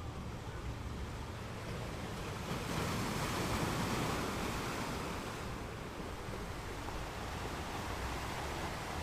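Ocean surf: a wave breaks and rushes in about three seconds in, then the wash eases off over a steady low rumble.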